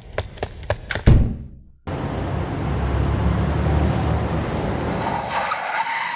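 Quick clicks and a loud thud, then a car sound effect: a steady rumble of a vehicle driving, with a high squeal near the end.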